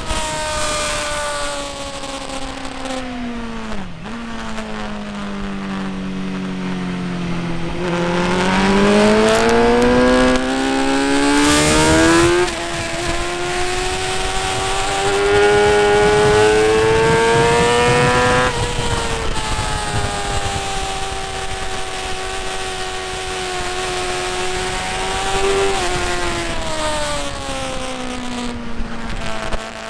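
Motorcycle engine at speed on a race circuit. It winds down for several seconds, then accelerates hard through the gears, its pitch rising steeply with breaks at the gear changes about 12 and 18 seconds in. It then holds a steady pitch before easing off again near the end.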